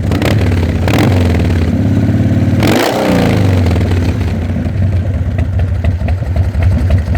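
1995 Harley-Davidson Dyna Wide Glide's 1340 Evolution V-twin being revved: a short blip of the throttle, then a longer rev climbing to a peak about three seconds in. It drops back to a lumpy, uneven idle.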